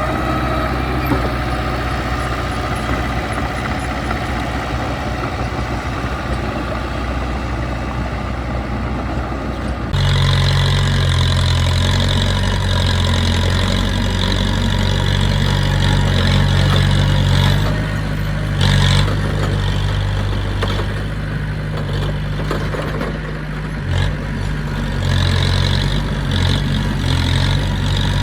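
Heavy diesel engine of earthmoving machinery running steadily. About a third of the way in the sound changes abruptly to a louder, deeper engine note with a high, steady band above it.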